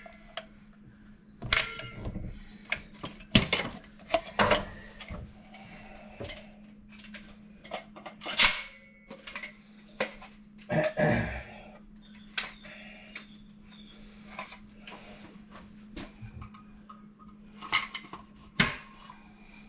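Scattered clicks, clinks and knocks of hand tools and fittings being handled during plumbing work on a washer box, over a steady low hum.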